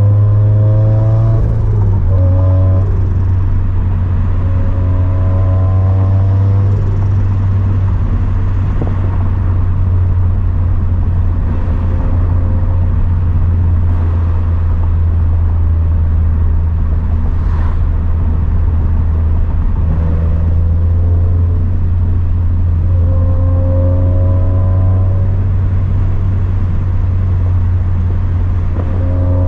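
Turbocharged 2013 Scion FR-S flat-four engine with a catless front pipe and quad-tip catback exhaust, driving along with a steady low drone. Its note climbs in pitch as the car accelerates a few times: near the start, about six seconds in, and again between about twenty and twenty-five seconds in.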